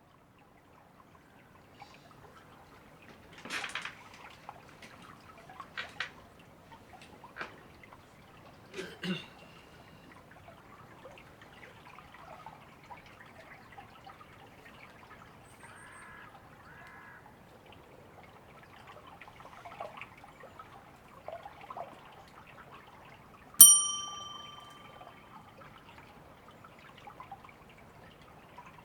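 Steady running water of a river, with a few light knocks in the first ten seconds. About three-quarters of the way through comes a single bright metallic ding that rings for a second or so before fading.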